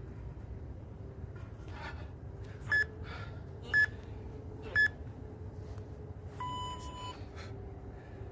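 Interval workout timer beeping a countdown: three short beeps a second apart, then one longer, lower-pitched beep marking the switch to the next interval.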